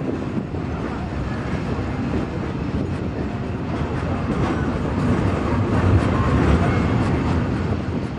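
Steam-hauled train running along the track: a steady rumble with faint clicking of wheels over the rails, swelling a little about two-thirds of the way through.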